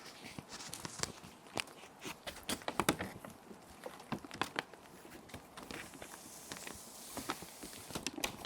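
Plastic sheet protectors crinkling as paper sheets are slid into them and handled, in a run of irregular sharp crackles and clicks, over a soft steady hiss of rain.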